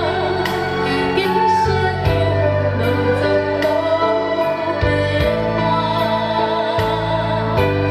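Chinese traditional orchestra playing a slow, tender song under a singer's wavering melody line, with sustained bass notes and a steady beat about twice a second.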